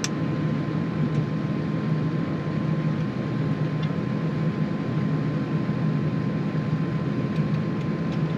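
Tractor engine running steadily while its hydraulic three-point linkage raises the damaged mower in a test lift.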